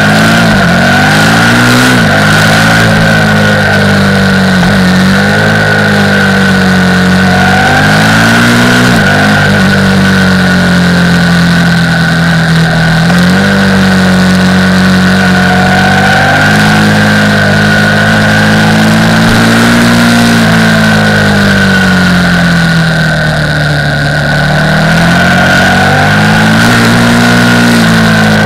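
KTM 990 Supermoto R's LC8 V-twin engine heard from onboard while riding. Its pitch climbs and falls with the throttle and drops sharply at gear changes, with a steady high whine above it.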